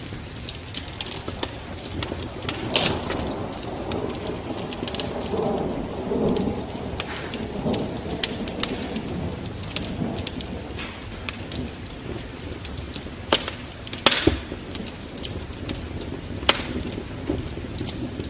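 Wood fire crackling, with frequent sharp, irregular pops. A low, rushing swell rises in over the first few seconds and fades out around the middle.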